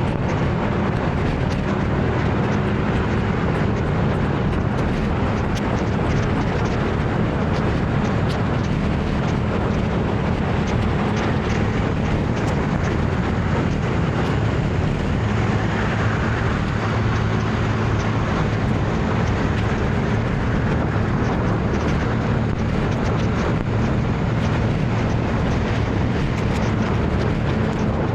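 Motor scooter riding through city traffic: a steady, unbroken mix of engine and road noise.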